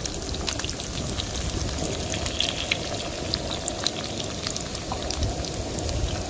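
Grated zucchini fritters frying in hot oil in a pan: a steady sizzle with many scattered small pops and crackles.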